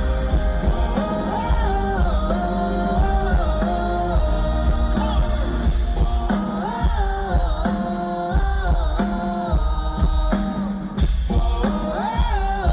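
Live rock band performing: male singing over drums, bass and electric guitar.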